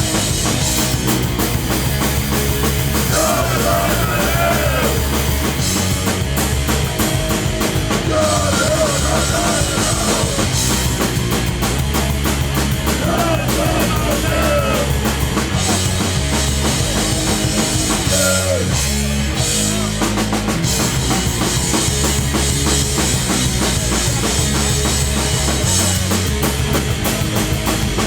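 Live hardcore punk band playing at full volume: distorted guitars, bass and a driving drum kit, with a brief break in the drums and bass about two-thirds of the way through.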